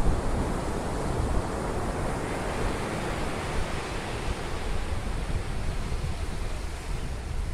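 Ocean surf washing onto a beach as a steady rush, with wind buffeting the microphone in a low, unsteady rumble.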